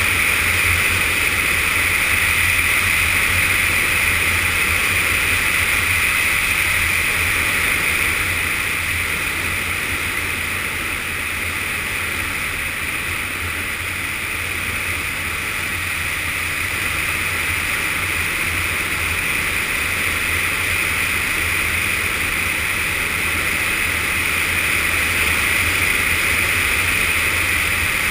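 Yamaha FZS600 Fazer's inline-four engine running at steady riding speed under a constant rush of wind and road noise. It eases slightly about ten seconds in and builds again.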